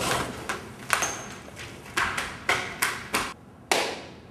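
A series of about six sharp knocks or impacts, irregularly spaced, each dying away quickly.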